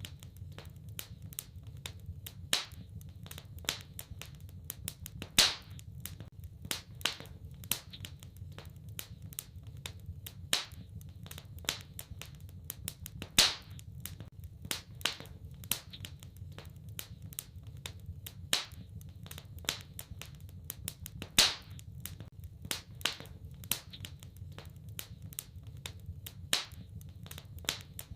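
Wood fire crackling in a fireplace: irregular sharp pops and snaps, several a second, with a louder snap every few seconds, over a low steady rumble.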